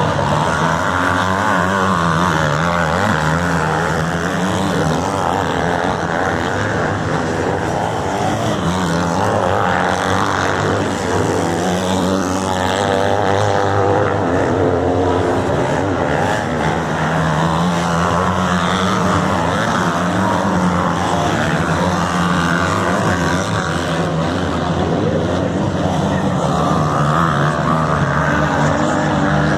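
Motocross motorcycle engines racing, revving up and down continuously with overlapping engine notes from several bikes.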